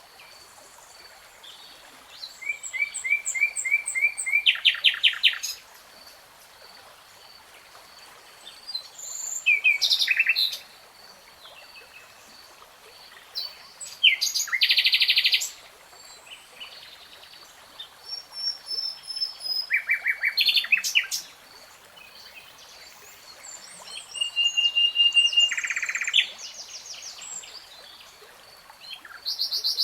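Nightingale singing in separate phrases of a second or two, with pauses of a few seconds between. The phrases are fast runs of repeated notes and trills, and one held whistle comes about twenty-five seconds in. A faint, even ticking continues underneath.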